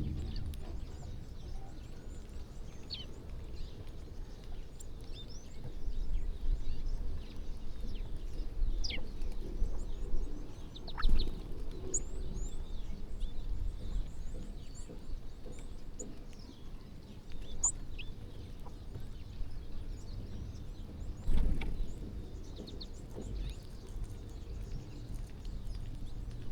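A flock of birds chirping, with scattered short high calls over a steady low outdoor rumble. There is a louder sudden sound about eleven seconds in and another about twenty-one seconds in.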